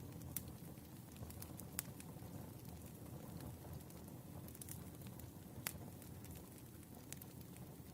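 Firewood burning: a steady low rumble of flames with scattered sharp crackles and pops, a few of them louder snaps.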